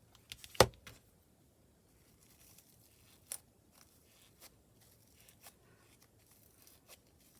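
Small craft items being handled on a tabletop: one sharp knock about half a second in, then light clicks and faint rustling.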